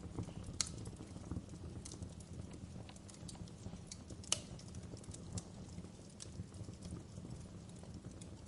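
Wood fire in a fireplace crackling: irregular sharp pops and snaps from the burning logs over a low, steady rumble of the flames, with two louder pops, one just over half a second in and one a little past four seconds.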